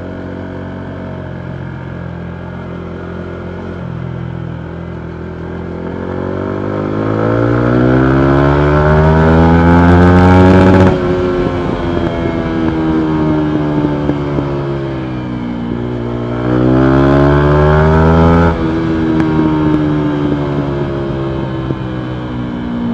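Single-cylinder engine of a 2019 Yamaha MT125 with a full Akrapovic exhaust, running low and even at first. It then revs up hard, the pitch climbing steeply for several seconds before the throttle snaps shut and the revs fall away. It revs up again briefly, cuts off sharply about three quarters of the way through, and winds down.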